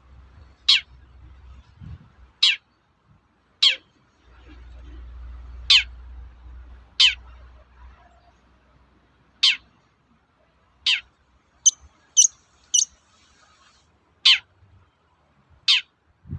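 Long-tailed shrike (cendet) giving its 'toet-toet' call: single sharp notes that sweep steeply downward in pitch, repeated every one to two seconds, with a quick run of three shorter, higher notes past the middle. A faint low hum lies underneath at times.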